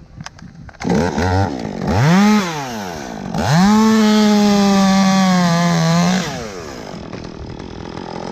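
Chainsaw starting up and revving: a short blip about two seconds in, then held at full throttle for nearly three seconds while cutting. Its pitch sags slightly under load before it drops back to idle.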